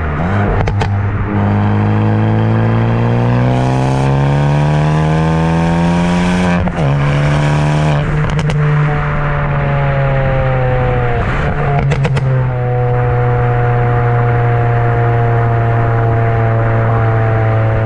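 Hyundai i20N's exhaust, its particulate filter removed, under hard acceleration. The engine note climbs steadily for about five seconds, breaks at a gear change, and pulls again. Sharp pops and bangs crack around the shifts, then the note holds steady and eases slightly lower.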